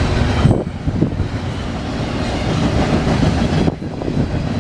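Train cars rolling past, wheels clattering over the rails in a steady loud rumble that dips briefly twice.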